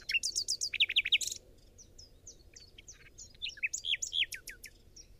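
Songbirds chirping: a quick run of short, high, down-slurred notes in the first second and a half, then scattered chirps that stop near the end.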